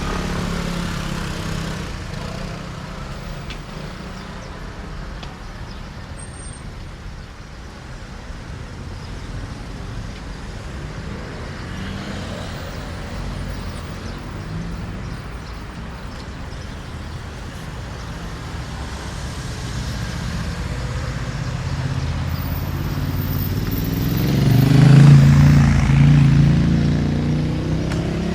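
Street traffic rumbling steadily, with one vehicle passing close by near the end, its engine and tyres swelling to the loudest point and then fading.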